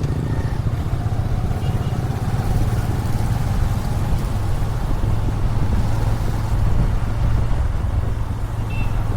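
Motorcycle engine running steadily while riding along a road, heard as a continuous low rumble.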